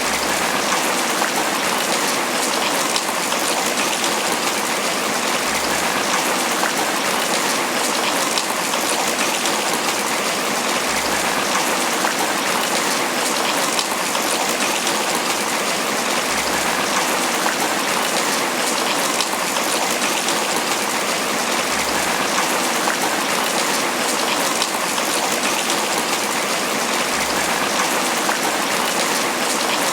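Steady tropical rain falling on banana leaves, an even, unbroken patter.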